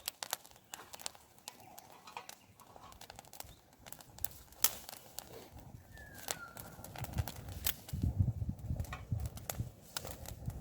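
Campfire wood crackling and popping in irregular sharp cracks, with a low rumble from about seven seconds in and a short falling whistle just before it.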